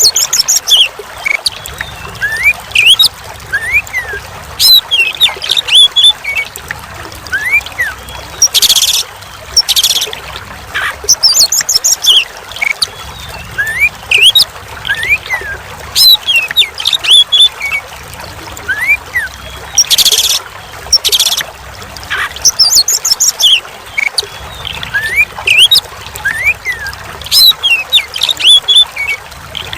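Oriental magpie-robin (kacer) singing: a busy run of short whistled notes and quick rising sweeps, broken by a few harsh rasping bursts. Trickling water runs underneath.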